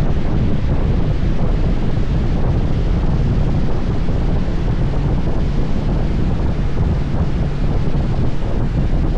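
Steady, heavy wind rush buffeting the camera microphone while riding a motorcycle at road speed, with a low steady hum underneath.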